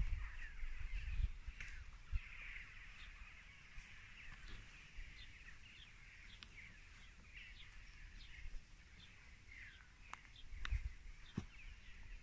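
Birds calling faintly: many short, quick calls scattered throughout, with a few knocks and thumps of handling noise near the start and near the end.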